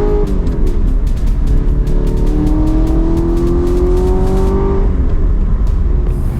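Car engine accelerating through the gears: its pitch climbs steadily, then drops at an upshift just after the start and again about five seconds in. Music plays along with it.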